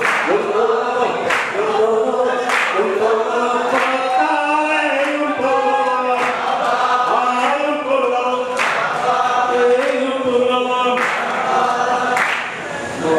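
Men's voices chanting a Shia mourning latmiyya together in a slow, drawn-out melody. A sharp hand strike keeps time about once every 1.2 seconds.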